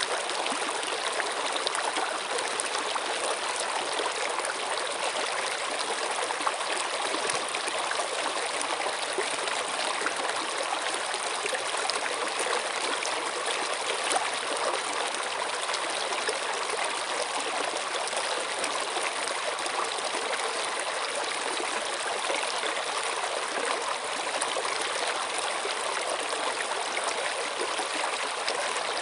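Running water flowing steadily, a continuous even rush with no breaks.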